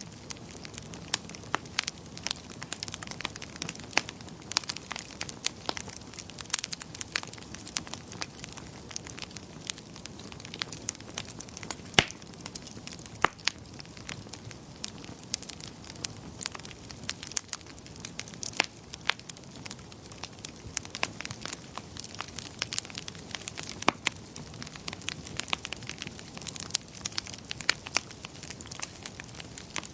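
Wood fire in a fireplace crackling: frequent sharp, irregular pops and snaps over a steady low hiss of burning.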